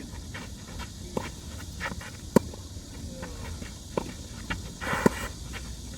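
Tennis ball being struck by rackets and bouncing on the court during a singles rally: sharp pops a second or more apart, the loudest about two and a half seconds in and again about five seconds in, with players' footsteps.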